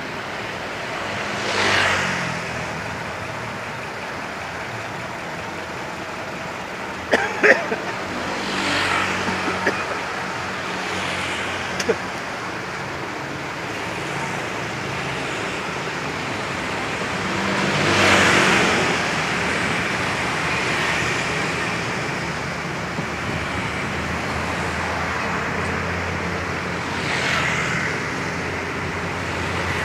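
Steady road traffic, with vehicles passing by four times and engines running throughout. A few sharp clicks or knocks come about a quarter of the way in.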